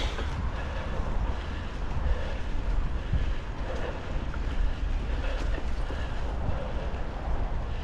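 Wind buffeting the microphone over steady tyre and trail noise from a Norco Storm mountain bike being ridden, with a few faint ticks.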